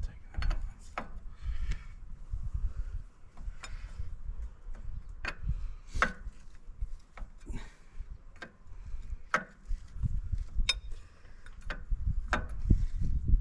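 Wrench and metal hydraulic fittings clicking and clinking at irregular intervals over low handling rumble, as a leaking hydraulic hose is taken off an excavator.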